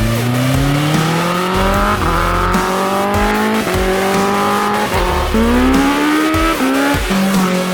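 BMW S1000XR inline-four engine pulling hard under acceleration, its pitch climbing and then dropping sharply at each upshift, several times over, before settling to a steady note near the end.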